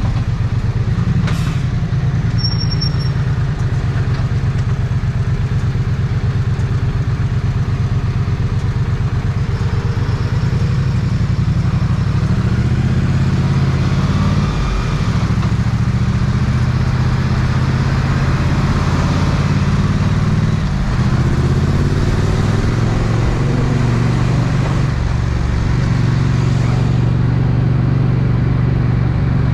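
Triumph 900cc parallel-twin motorcycle engine running at low speed in traffic, its pitch dipping briefly twice in the middle and rising again with the throttle. A short click sounds about a second in.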